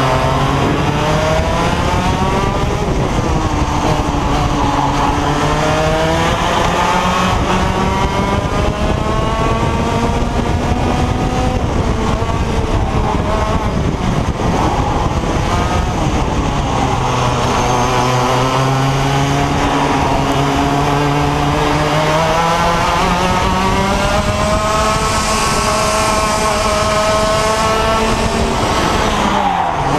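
IAME X30 125cc two-stroke kart engine at racing speed, its revs climbing steadily and then dropping off several times, as on straights and corners. The revs fall sharply near the end and pick up again.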